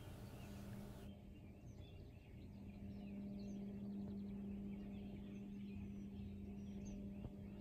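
Faint early-morning outdoor ambience: scattered bird chirps over a steady low hum, which stops near the end.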